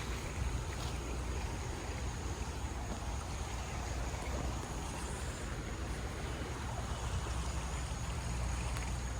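Floodwater flowing and rushing steadily, with a low rumble underneath.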